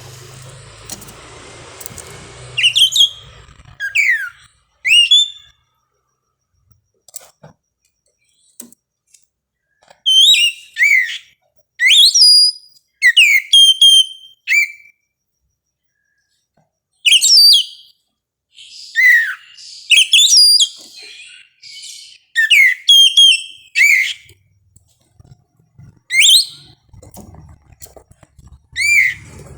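Oriental magpie-robin singing: loud, clear whistled phrases, many sliding downward, delivered in quick bursts. There is a silent gap of a few seconds about a quarter of the way in and another shorter one near the middle.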